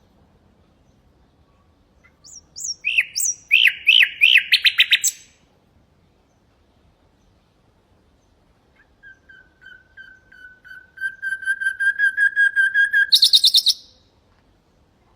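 Nightingale singing two song phrases. The first is a quick run of down-slurred notes ending in a fast trill. After a pause comes a long series of repeated whistled notes on one pitch, swelling in loudness and ending in a short high rattle.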